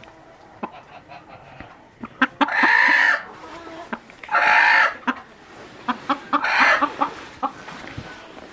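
Chickens calling: three loud, drawn-out calls about two seconds apart, with small clicks and scratching sounds between them.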